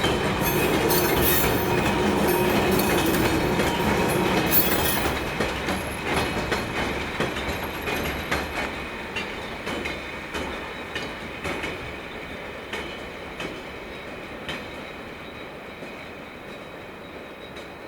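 A train passing on the track and moving away, its wheels clicking rhythmically over the rail joints and fading steadily. A brief faint high wheel squeal comes partway through.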